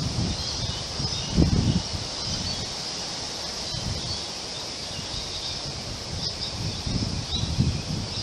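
Strong wind gusting through trees, a steady hiss of leaves with low buffeting of wind on the microphone that swells about a second and a half in and again near the end. Short high bird calls sound over the wind.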